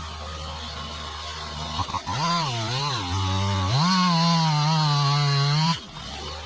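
Chainsaw engine idling, then revved twice about two seconds in. It is held at high revs for a couple of seconds, then drops suddenly back to idle near the end.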